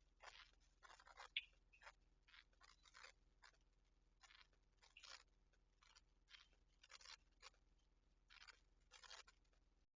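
Faint, irregular scratching and rustling: about fifteen short scrapes at uneven intervals, with one brief high chirp about a second and a half in.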